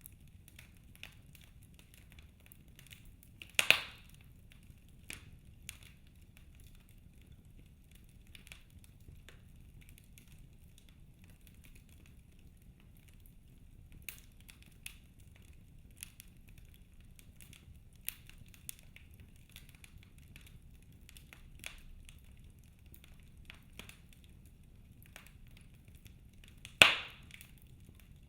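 Wood fire burning in a fireplace, crackling with scattered small snaps and two loud sharp pops, one about four seconds in and one near the end.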